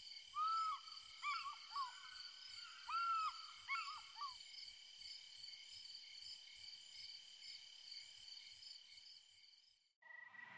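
Forest ambience: a bird gives several short, rising-then-falling whistled calls in the first four seconds over a steady high-pitched drone. The ambience fades out and music starts near the end.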